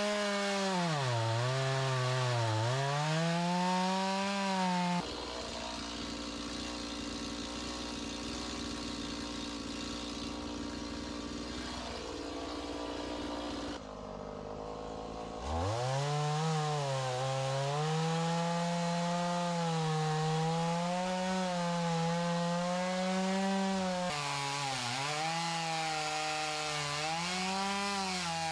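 Stihl chainsaw cutting into big oak rounds, its engine pitch dipping and recovering again and again as the chain bogs in the wood. For about ten seconds in the middle it runs steadier and quieter, drops off briefly, then bites back in with the wavering pitch.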